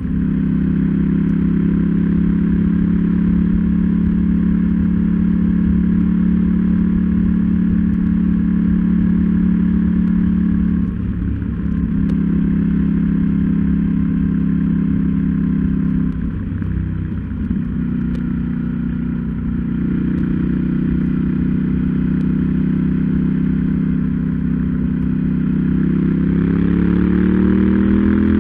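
KTM 790 Duke's parallel-twin engine pulling at steady road revs. The revs ease off briefly about eleven seconds in and again around sixteen to eighteen seconds. Near the end the revs climb steadily as the bike accelerates.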